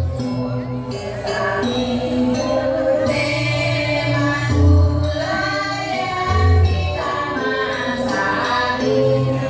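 Balinese janger song: a group of voices singing together in chorus over a low, repeating beat.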